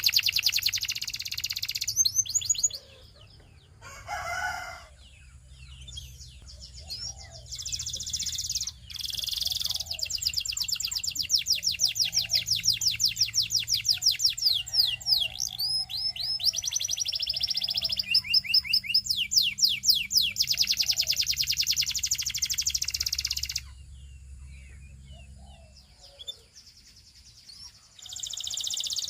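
Canary singing: long runs of rapid trilled, repeated high notes, broken by short pauses, with a longer lull about three-quarters of the way through before the song resumes.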